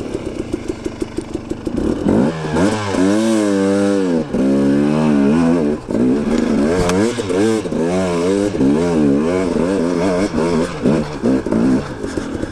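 KTM 250 XC-W two-stroke dirt bike engine pulling under load up a hill climb: low and chugging at first, then from about two seconds in revving up and down again and again as the throttle is worked.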